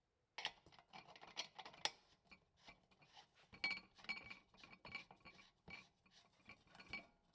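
Small metal parts of an old Coleman lantern being handled during reassembly: a string of light, irregular clinks and scrapes with a faint ringing note, and a few sharper clinks.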